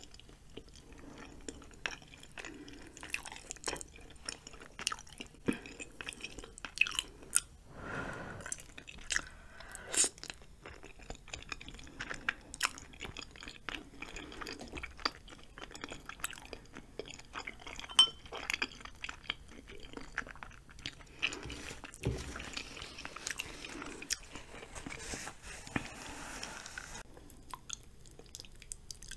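Close-miked chewing of spicy cheesy ramen noodles and chewy rice cakes: wet mouth sounds with many irregular short clicks, one sharper click about two thirds of the way through.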